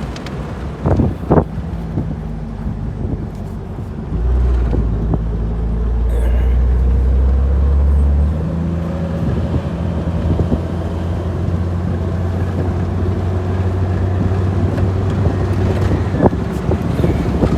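Engine and drivetrain drone of a 2000 Jeep Wrangler with an automatic transmission, heard while driving. About four seconds in the low hum grows louder, and about eight seconds in it changes to a steadier, slightly higher hum. This is typical of the engine pulling under acceleration and then a gear change or easing off, on a transmission that is reluctant to upshift.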